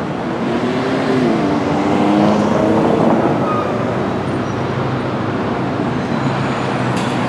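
Street traffic, with a heavy vehicle's engine passing from about half a second to three seconds in, its pitch shifting as it goes by.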